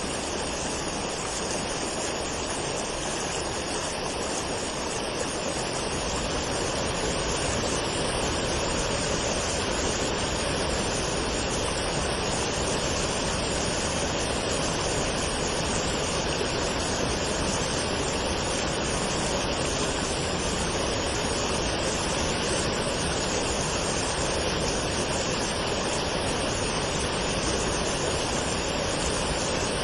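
Waterfall: a steady, unbroken rush of falling water, a little fuller from about six seconds in.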